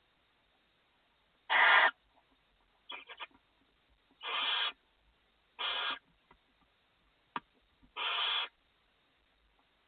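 Barn owl chicks' hissing begging calls: four harsh bursts, each about half a second long and a couple of seconds apart, with a short rattle of clicks between them.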